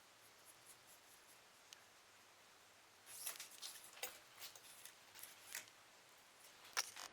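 Light clicks and short scrapes of small hard parts being handled, starting about three seconds in, with one sharper click near the end.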